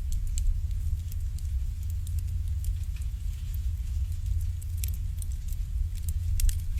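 Wood fire burning in an irori sunken hearth: scattered sharp crackles and pops over a steady low rumble, with the strongest pops about five and six and a half seconds in.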